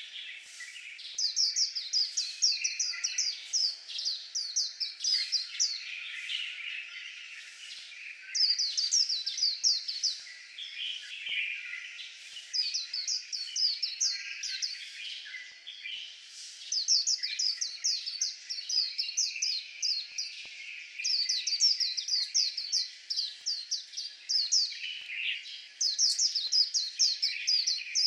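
White-eye singing: repeated bursts of fast, high chirping notes, each one to two seconds long, with softer, lower warbling between the bursts.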